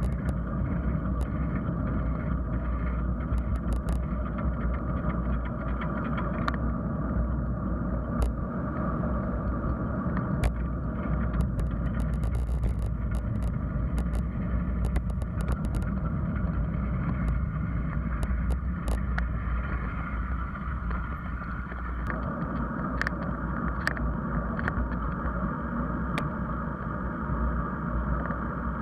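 Riding noise picked up by a camera on a moving bicycle: steady wind and road rumble, with scattered short clicks and rattles throughout.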